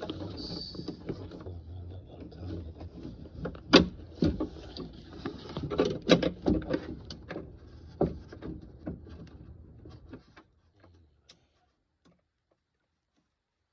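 Irregular clicks, taps and knocks of car door parts being worked by hand to pry a stuck piece free, the sharpest knocks about 4 and 6 seconds in. The sounds stop about ten seconds in and it goes nearly silent.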